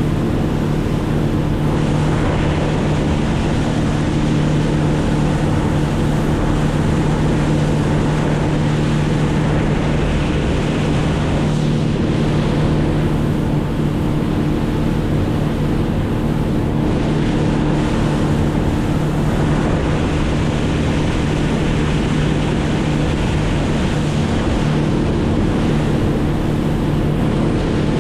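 Boat motor running at a steady speed, a constant drone under a rush of water and wind noise on the microphone.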